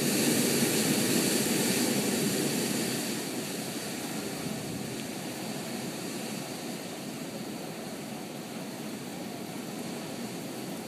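A steady engine roar, loudest over the first three seconds and then fading to a lower, even level.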